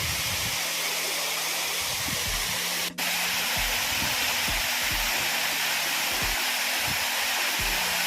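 Waterfall rushing, a steady dense hiss of falling water, briefly dropping out about three seconds in.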